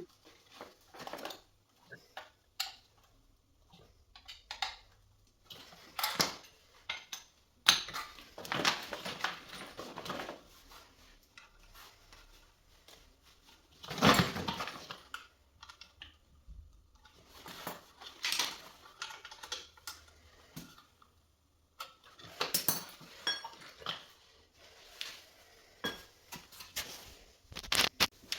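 Light clicks, taps and small metallic clatter from hands handling tools and parts of a washing machine under repair, scattered irregularly, with a louder clatter about fourteen seconds in.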